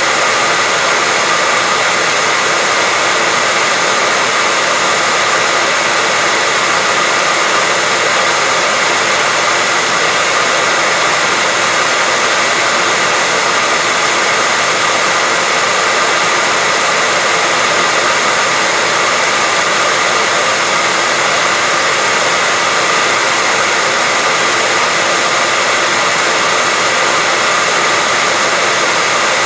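Hair dryer running steadily with a constant whooshing blow and a faint steady whine.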